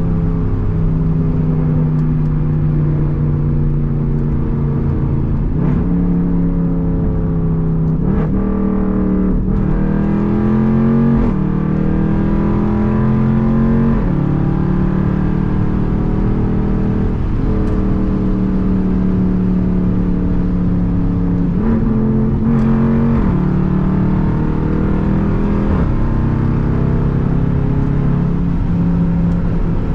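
Straight-piped Jeep Grand Cherokee SRT's 6.4-litre HEMI V8 exhaust under way, holding a steady drone for stretches. Its pitch climbs as the Jeep accelerates and drops at each of several upshifts.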